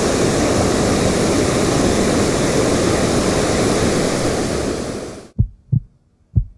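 Waterfall rushing: a steady, full-range roar of falling water that fades out about five seconds in. A few soft, short low thumps follow near the end.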